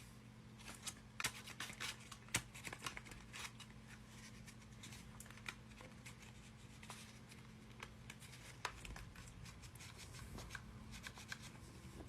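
Faint rustling and light clicks of paper being handled, scattered irregularly throughout, over a low steady hum.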